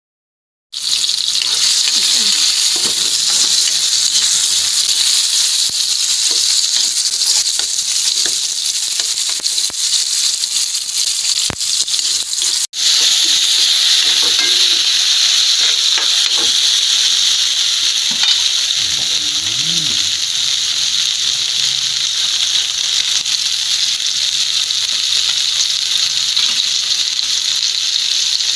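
Chopped chicken liver and onions sizzling steadily in hot oil in a wok, stirred now and then with a spatula. The sizzle cuts in abruptly just under a second in and breaks off briefly about halfway through.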